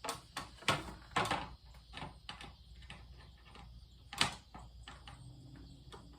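Small hard parts being handled: a scattered string of clicks and knocks, the loudest one about four seconds in.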